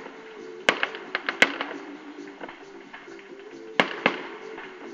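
Fireworks exploding in sharp bangs: a quick cluster of about five reports within the first second and a half, then two more close together near the end. A tune plays underneath.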